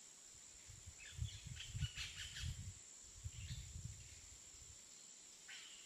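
Quiet outdoor ambience with a steady faint high-pitched whine, and a few soft low thumps and scuffs between about one and four seconds in.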